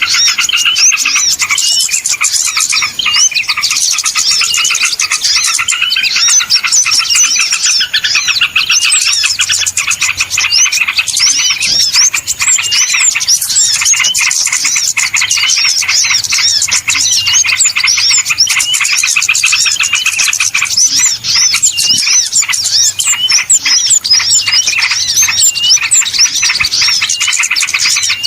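A dense, unbroken chorus of many small birds chirping and twittering over one another, a bird-lure recording of agitated small birds.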